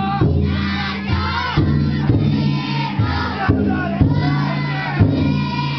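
Futon daiko festival float: its big taiko drum struck hard about once a second, each stroke ringing on, while a crowd of bearers shouts a chant over it.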